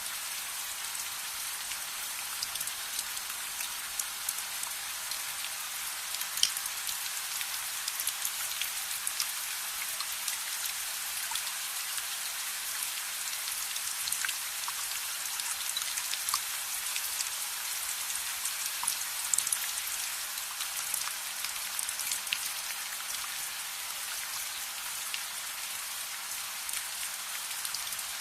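Steady rain: an even hiss of rainfall with many scattered sharp ticks of drops and small pops throughout.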